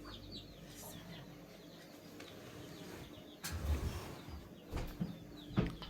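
Small birds chirping in quick series of short, falling notes, with a sharp click and a low thump about halfway and a couple of knocks near the end.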